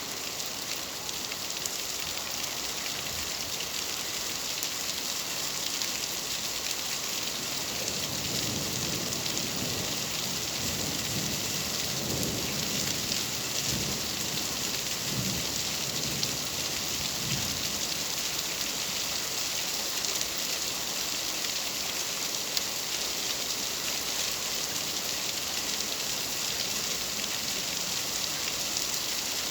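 Steady, even rain falling, with low rumbles of thunder rolling through from about seven to eighteen seconds in.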